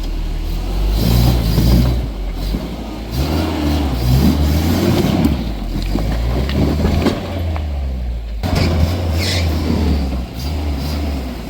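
Off-road 4x4 truck engine revving in repeated bursts under load as it crawls through a deep washed-out trench, with a few knocks along the way.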